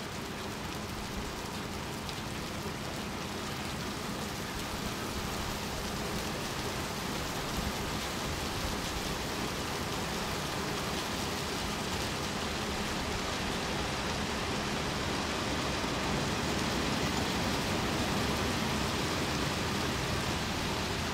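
Rain shower falling, a steady hiss of raindrops that grows slowly louder as the shower builds.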